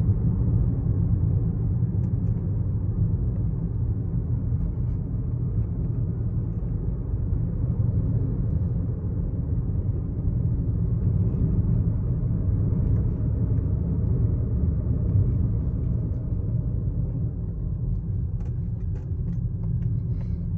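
Steady low rumble of a 12th-generation Toyota Corolla Altis heard from inside the cabin while it runs, with a few faint clicks near the end.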